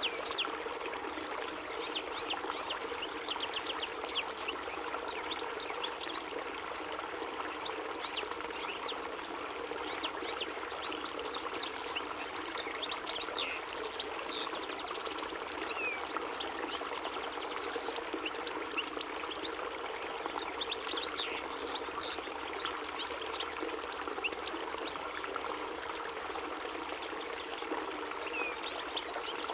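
European goldfinch singing: a long run of rapid, high twittering notes with quick pitch sweeps, over a steady rushing background noise.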